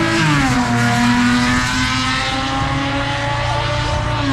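Car engine running at raised revs. Its pitch drops about half a second in, holds steady for a few seconds, then falls away near the end as the engine eases off.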